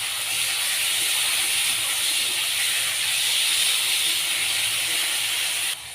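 Minced chicken frying in hot oil, a steady sizzling hiss that drops off sharply near the end.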